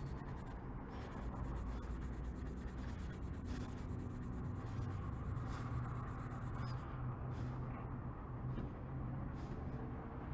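Fast scratchy rubbing by hand on a plastic tail-light lens, working the faded plastic down. The rubbing thins out about seven seconds in, over a steady low hum.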